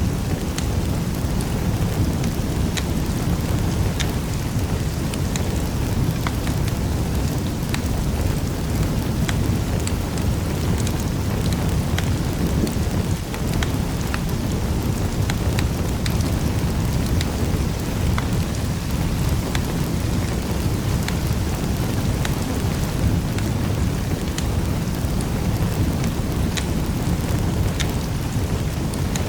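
Wood fire crackling in a fireplace: a steady low rumble of flames with frequent sharp pops and snaps at irregular intervals.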